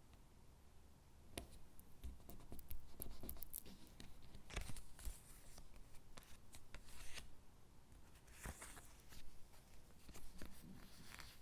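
Stickers being peeled from their backing sheet and pressed onto paper gingerbread cutouts: crisp peeling and paper rustling with small clicks and taps, coming in irregular bursts.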